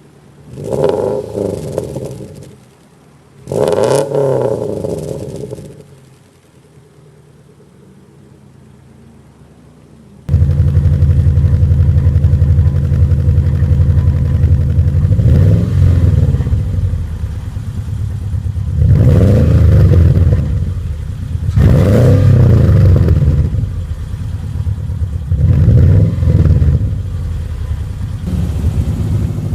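Subaru Impreza 2.5i's 2.5-litre flat-four engine revved through aftermarket exhaust: two quick blips that rise and fall over a quiet idle, then an abrupt change about ten seconds in to a much louder exhaust setup idling, blipped four more times.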